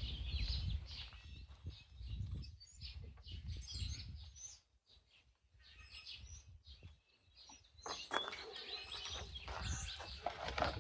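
Songbirds chirping and twittering in the background, thickest at the start and again in the last few seconds, over a low rumble of handling noise.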